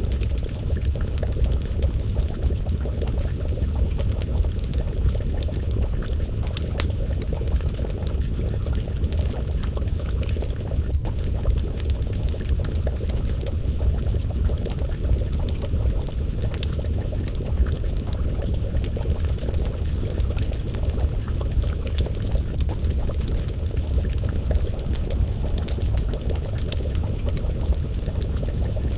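Wood fire crackling with scattered sharp pops over a steady low rumble, mixed with the bubbling of a pot of stew simmering over the flames.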